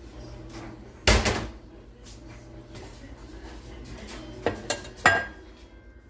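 Dishes and serving utensils clattering: one loud knock about a second in, then three sharp clinks near the end, the last ringing briefly.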